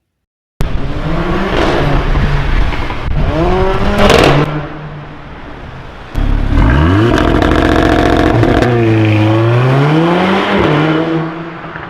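Stage 2 tuned Volkswagen Golf 8 R, its 2.0-litre turbocharged four-cylinder engine and exhaust revving hard. The engine note climbs in pitch with a loud burst about four seconds in, then sweeps up again, dips and rises once more before fading near the end.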